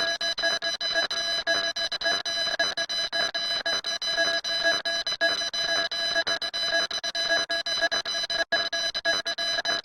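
Electronic alarm sounding: shrill steady tones rapidly pulsing on and off, with a brief break near the end.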